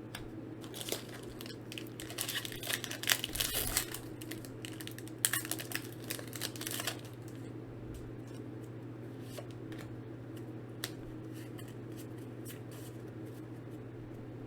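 Pokémon XY Evolutions booster pack being torn open, its foil wrapper tearing and crinkling in two spells of rustling, about a second in and again around five seconds in, followed by faint ticks of card handling. A steady low hum runs underneath.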